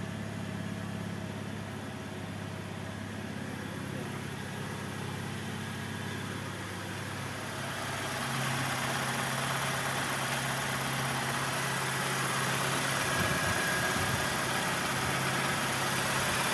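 BMW E90 engine idling steadily, its revs not rising, first heard from the driver's seat and, from about 8 seconds in, louder and clearer from the open engine bay. The owner traces the fault to the throttle butterfly not moving.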